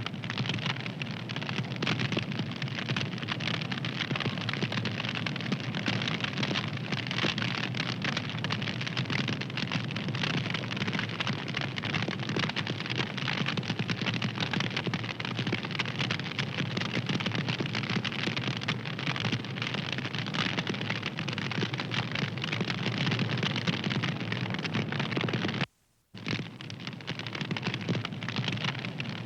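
Wood fire crackling steadily, with a dense stream of small pops and snaps. It cuts out for a split second near the end.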